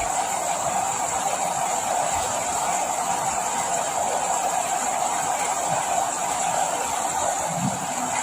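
Steady rain falling, an unbroken even hiss with no letting up.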